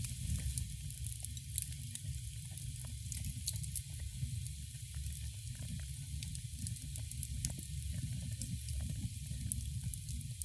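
Wood fire burning in a fireplace, crackling with many small irregular pops over a steady low rumble and a soft hiss.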